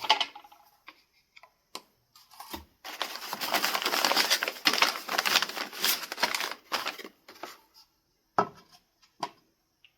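A few clicks and taps, then about four seconds of dense rattling and crinkling, then a few more scattered clicks: objects being handled and rummaged through.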